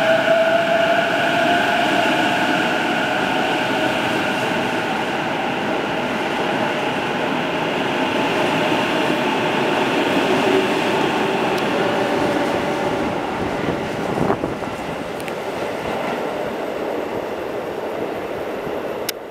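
Sotetsu 12000 series electric train accelerating away from an underground platform: its traction motors whine in several steady tones that rise slightly at first, over a rumble of wheels on rail. The whine fades over the first half, leaving running rumble, and a sharp click comes about fourteen seconds in.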